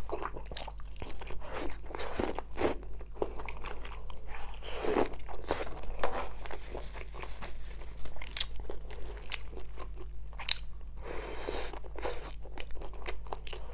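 Close-miked chewing and biting of food, crunching with many short, irregular crackles one after another.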